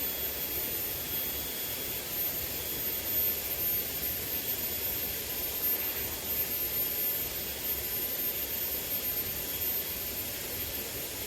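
Small river's water running steadily, a constant rushing noise.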